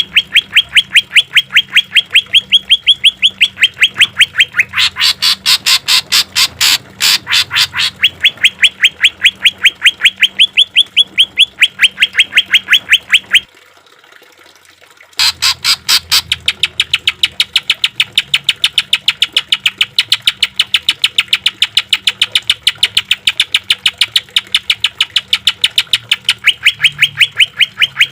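Greater green leafbird (cucak ijo) singing a rapid, harsh 'tembakan' (shooting) fill: short rising notes repeated about five times a second, changing note type a few times. There is a break of about a second and a half roughly halfway through, then the run resumes.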